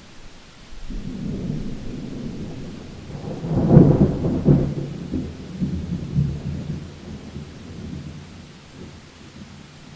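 Thunder in a rainstorm. A low rumble builds, peaks in a loud crack about four seconds in, then rolls on and fades out over steady rain hiss.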